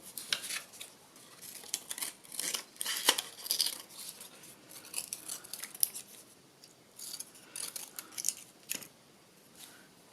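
Scissors snipping through paper in a run of short, irregular cuts, trimming the excess paper from around glued-on shapes.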